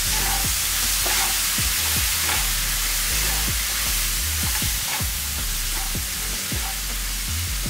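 Onions, green peas and fresh fenugreek leaves sizzling in oil in a non-stick frying pan, with a wooden spatula stirring and scraping against the pan about once or twice a second.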